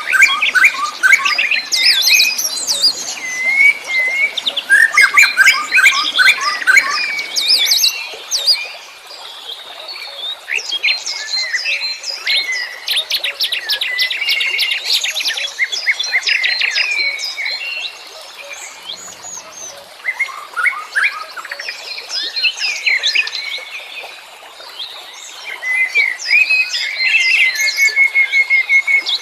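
A chorus of several wild songbirds chirping, trilling and whistling at once, dense overlapping phrases with rapid note series, busiest in the first few seconds and again towards the end.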